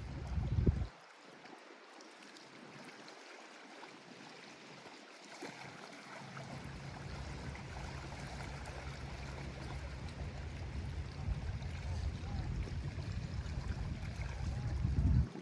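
Small lake waves lapping and washing against the shore as a steady hiss of moving water. A deep rumble lies under it for the first second, drops away, returns about six seconds in, builds, and cuts off sharply near the end.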